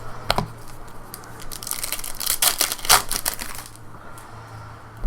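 A foil trading-card pack wrapper being torn open and crinkled, in a dense crackling burst of about two seconds in the middle.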